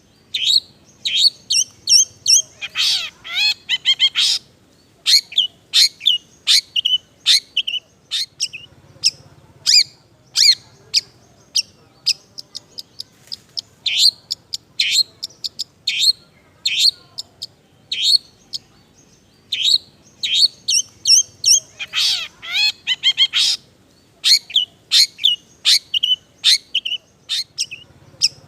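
Long-tailed shrike singing a rapid, varied chattering song of short chirps. Its song is filled with mimicked phrases of other birds. A harsh rattling burst comes about three seconds in and again near twenty-two seconds.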